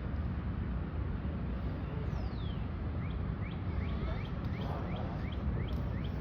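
A bird calling: a single falling whistle about two seconds in, then a run of short rising chirps, about three a second. Under it runs a steady low rumble.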